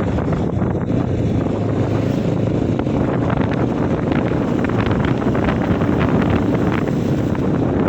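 Wind rushing over the microphone while riding a Bajaj Pulsar NS200 motorcycle, with its single-cylinder engine running steadily underneath.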